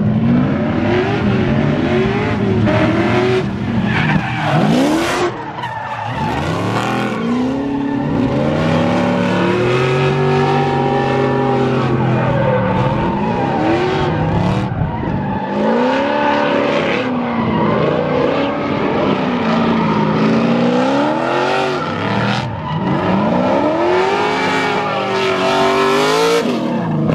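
Drift cars sliding around the track, their engines revving up and down again and again over a steady hiss of tyre squeal.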